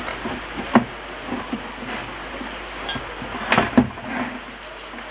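Sharp clicks and knocks of a home theatre unit's casing being opened and handled: one knock under a second in, then a quick cluster of them about three and a half seconds in.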